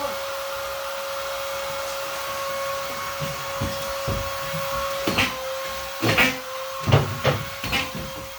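Vacuum cleaner running with a steady whine. Several knocks in the second half, the loudest about seven seconds in.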